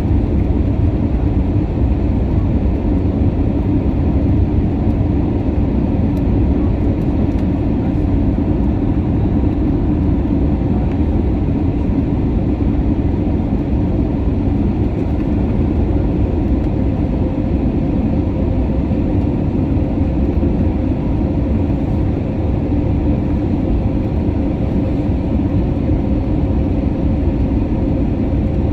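Airbus A320neo cabin noise: a steady low rumble of the engines and airframe heard from inside the passenger cabin, with a faint steady hum that grows slightly stronger in the second half.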